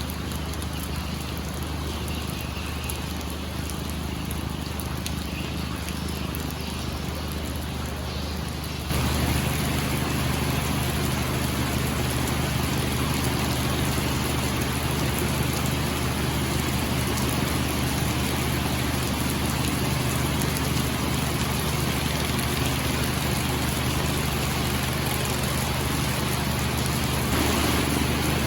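A fishing boat's engine running steadily under the hiss of rain. About nine seconds in, the sound jumps louder and stays there.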